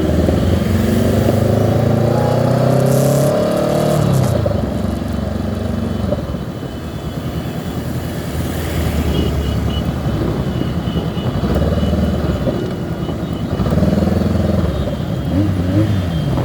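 Motorcycle engines running in a large group ride, revving with rising and falling pitch in the first few seconds and again near the end.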